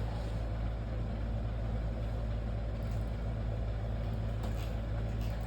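Steady low machine hum with an even hiss, unchanging throughout, and a couple of faint soft clicks.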